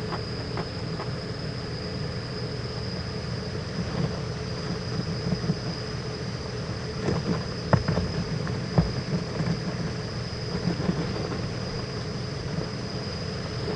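Steady background hum with a constant high whine, broken by scattered soft knocks and scrapes, with two sharper thumps about eight and nine seconds in, as the barred owls move about the nest.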